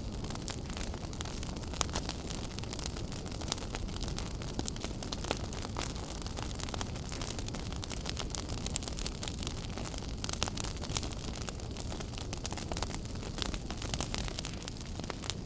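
Wood fire burning in a fireplace: steady crackling with frequent sharp pops and snaps over a low rumble of the flames.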